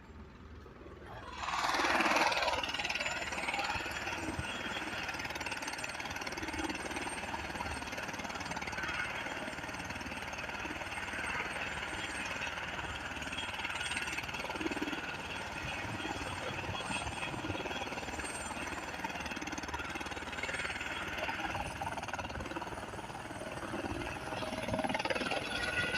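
Airbus H130 helicopter running in flight: a steady turbine whine over a fast rotor beat, rising sharply in level about a second and a half in and swelling again near the end.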